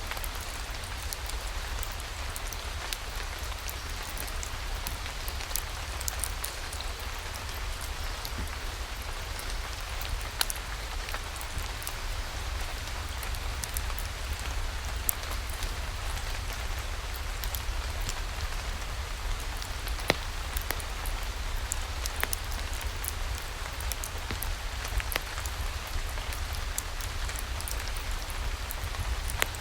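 Steady rain falling, with scattered sharp ticks of drops over a constant low rumble.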